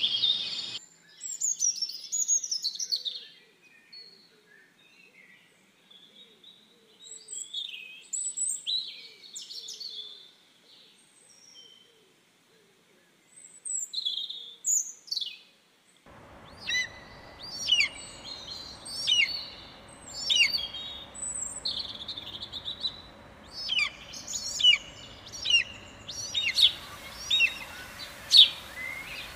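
Small birds chirping and calling: short, high chirps with pauses between them. About halfway through, a faint steady background comes in and the chirps get quicker and sharper, falling in pitch, repeating every second or so.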